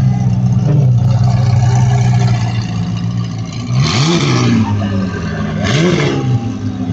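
A car engine running at a steady low speed, revved twice in short blips about four and six seconds in, each rising and falling quickly in pitch.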